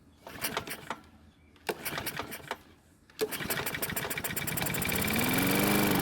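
Toro Personal Pace walk-behind mower's engine being pull-started: two pulls on the recoil starter, then about three seconds in it fires and runs, revving up and starting to drop just at the end. This is the first start after its badly out-of-spec valve clearances were corrected, and it runs only briefly.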